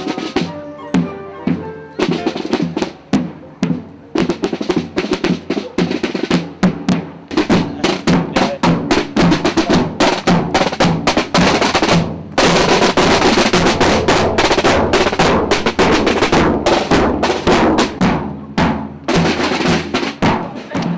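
A corps of drummers playing snare drums with a bass drum in a rapid marching rhythm. About halfway through, the snares go into a long unbroken roll for around six seconds before returning to separate beats.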